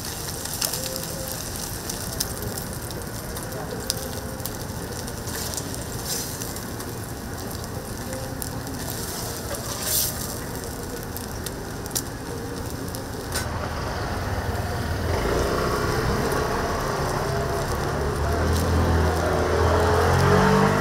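Food sizzling on a hot griddle, a steady frying hiss with a few sharp clicks. About two-thirds of the way through, it grows louder.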